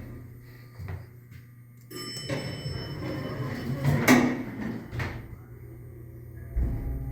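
Elevator sounds: a ringing chime tone about two seconds in, a sharp knock about four seconds in, and a low steady hum near the end.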